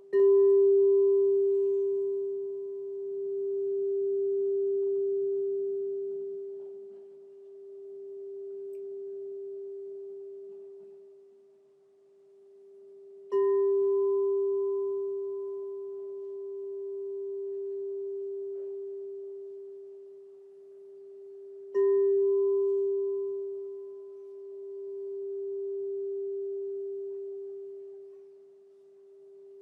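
Crystal singing bowl struck three times, at the start, about 13 seconds in and about 22 seconds in, each strike ringing on as one pure low tone with a faint higher overtone that dies away sooner. The ring slowly swells and fades in waves every few seconds as it sustains.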